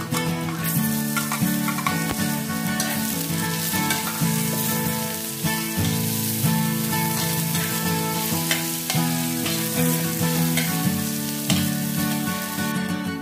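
Sliced red onion and garlic sizzling in hot oil in a wok as they are sautéed, stirred with a spatula. The sizzle starts about half a second in and stops just before the end.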